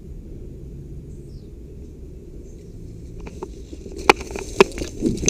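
Footsteps crunching over dry leaves and twigs, starting about three seconds in and growing louder as irregular sharp crackles, over a low steady rumble.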